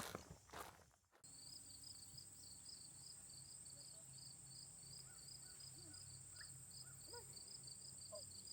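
Footsteps on the trail, cut off abruptly about a second in, then a faint chorus of insects: a steady high buzz with an even chirping about three times a second beneath it. A few faint short bird chirps come in near the end.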